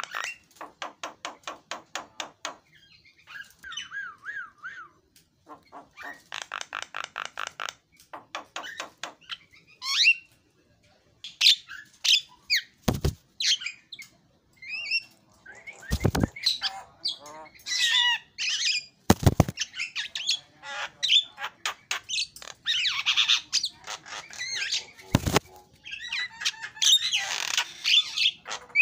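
Javan myna (jalak kebo) singing a varied, chattering song: fast runs of repeated clicking notes, short whistles and harsh squawking calls. Four sharp knocks come through the song about halfway through and near the end.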